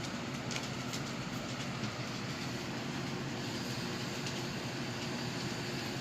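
A steady low rumble of continuous mechanical noise, even throughout, with a few faint clicks in the first second and a half.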